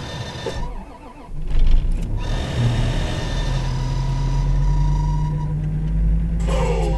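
1985 Toyota Cressida's inline-six being cold-started at about minus 15: it cranks and catches about a second and a half in, on the second try. It then settles into a steady, even cold idle.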